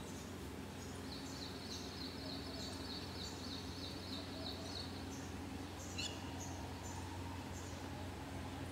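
Birds calling faintly in the open air over a steady low hum: a rapid trill of high notes for about four seconds, then a single sharp call about six seconds in, with scattered chirps.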